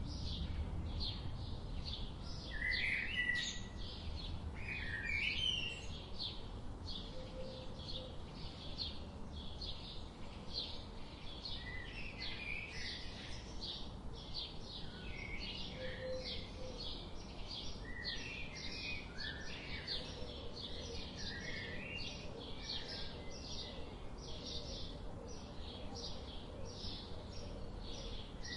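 Several songbirds chirping and singing at once: a steady run of short, high chirps, a few a second, with lower warbled phrases breaking in now and then.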